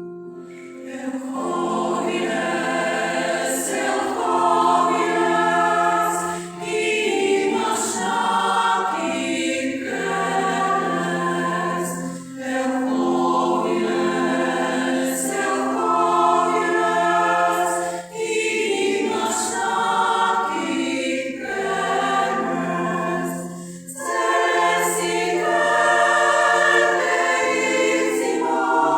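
A choir sings in phrases of several seconds, with a short break about every six seconds between them.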